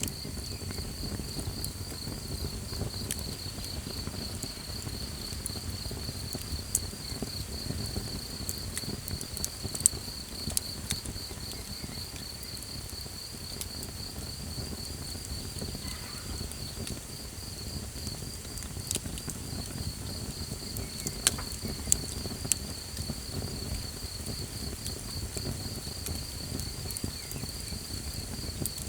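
Crickets chirping in a steady, rapid pulsing trill, over the low rumble of a small campfire that gives a few sharp crackling pops.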